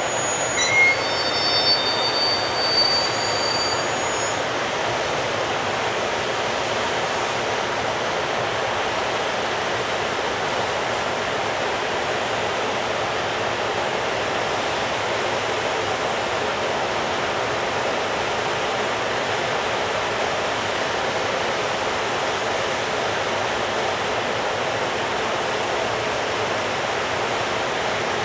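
Container freight train rolling past at low speed as it pulls out of the station, a steady rushing rumble of wagons on the rails. Several brief high-pitched wheel squeals sound in the first few seconds.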